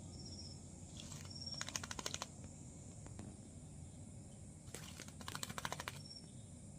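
White-rumped shama bathing: two bursts of rapid fluttering clicks, about two seconds in and again about five seconds in, with a few short high peeps between.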